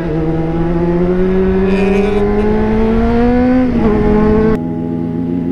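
Sport motorcycle engine accelerating, its note rising steadily for about three and a half seconds before dipping; the sound cuts off abruptly about four and a half seconds in.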